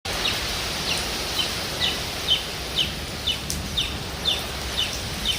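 Steady rain hissing, with a bird giving a short, falling chirp over and over, about twice a second.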